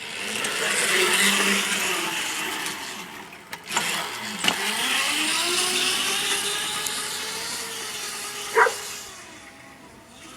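A mini bike's small engine running and revving as it rides around, its pitch dipping and climbing again about halfway through, then fading away near the end. A brief high-pitched sound cuts in shortly before it fades.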